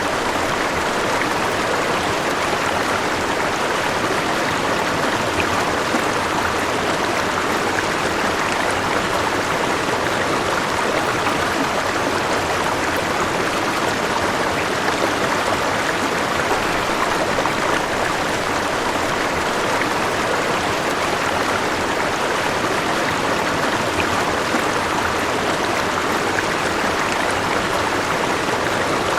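River water flowing and rushing in a steady, unbroken stream.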